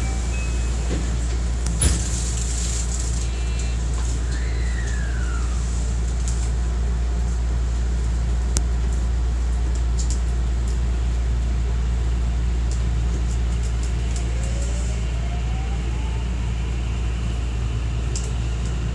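Cabin running sound of a JR West 207 series 2000-subseries commuter train with a Toshiba traction inverter: a steady low rumble with a single clunk about two seconds in. From about three-quarters of the way through, the inverter's whine rises in pitch as the train picks up speed.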